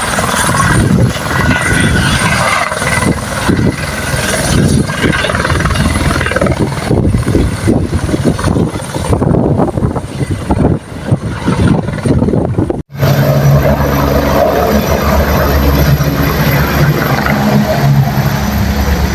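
Helicopter running close by, with a choppy, uneven rotor sound. About two-thirds of the way through it cuts off abruptly and is replaced by a steadier, lower helicopter hum.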